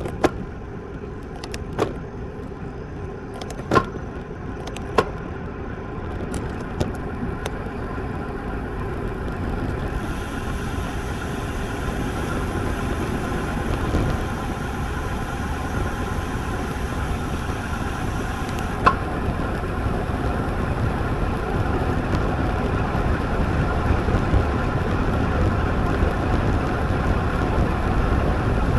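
Wind rushing over the action camera's microphone and road-bike tyres humming on pavement while riding, the noise growing steadily louder as speed builds. A few sharp clicks or knocks come in the first five seconds, and one more comes about two-thirds of the way through.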